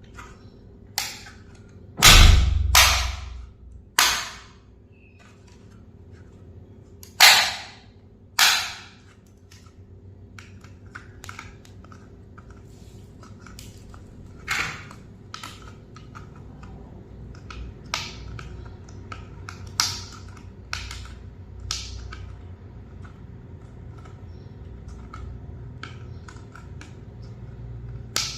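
Handling noises from unboxing toys: a string of sharp clicks and crackles of plastic and cardboard, the loudest bunched about two and seven seconds in, then lighter ticks, over a low steady hum.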